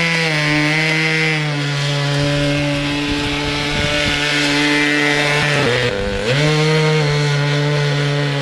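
Radio-controlled model airplane's engine and propeller running at a steady high pitch, throttled down briefly about six seconds in and then run back up.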